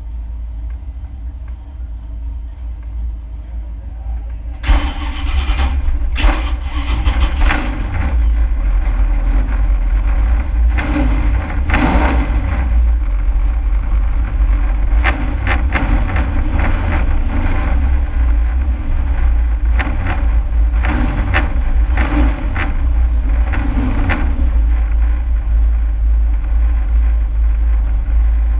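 Race truck's engine heard from inside the cab, a heavy low rumble. It is quieter at first, then jumps much louder about five seconds in, with repeated bursts of harsh rasping noise over the running engine.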